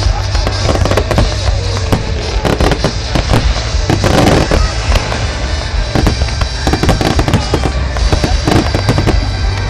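Fireworks display at full intensity: a rapid, unbroken barrage of shells bursting, many bangs a second with dense crackling, over a constant low rumble.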